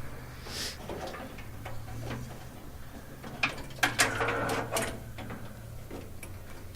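A cluster of metallic clanks and rattles about three and a half to five seconds in, over a steady low hum.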